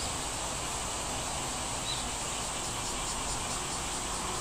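Steady outdoor ambience: an even hiss with a high insect-like drone, and a faint short bird chirp about two seconds in.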